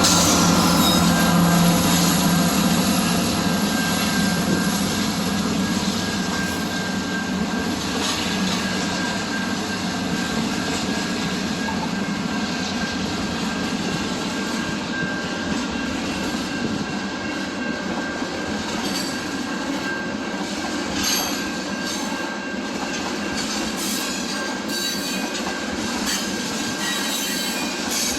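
Train cars rolling past with a steady wheel squeal on the rails and some clacks over rail joints, loudest at first and easing a little.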